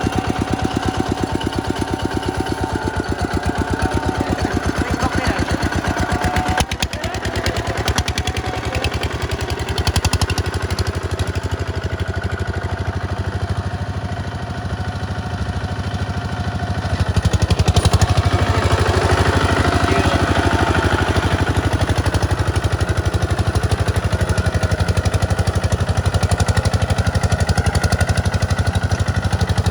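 Tractor engine running steadily with a rapid, even firing beat; it grows louder about eighteen seconds in.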